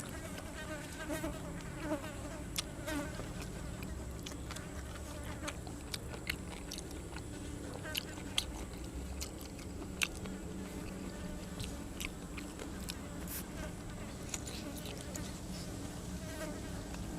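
A person chewing close to the microphone, with many short sharp crunches from eating grilled cuttlefish and raw vegetables. A steady insect buzz runs underneath.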